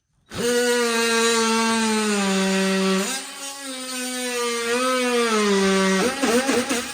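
Power tool cutting into wood, its motor starting and running at a steady pitch. The pitch sags under load twice, picks back up between the cuts, and wavers near the end.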